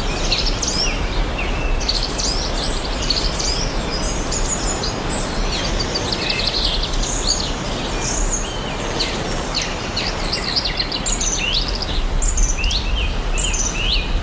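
Several songbirds chirping and singing in quick, overlapping phrases over a steady rushing background noise.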